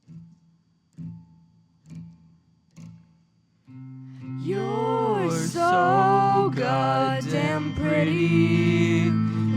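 Song intro: four soft guitar strums about a second apart, then the backing comes in with held chords and a voice starts singing about four and a half seconds in.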